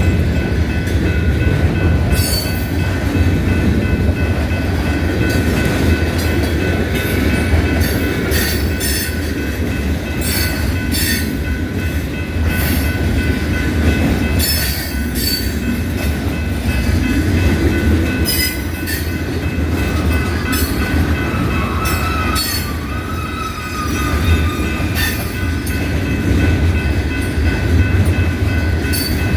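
Freight train rolling past: a steady low rumble of the wheels with frequent sharp clicks as they cross rail joints, and a thin, steady high wheel squeal over it.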